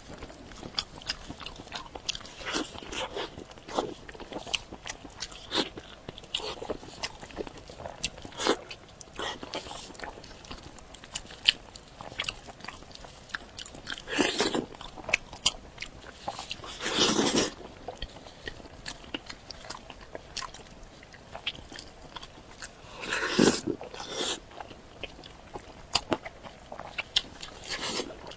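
Close-up chewing and biting of cooked pig's ear, with a steady run of small crunchy clicks from the ear's cartilage. A few louder, longer chewing bursts come about halfway through and again later on.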